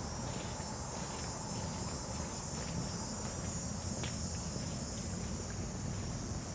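Steady high-pitched drone of summer insects, over a constant low rumble, with a few faint clicks of footsteps.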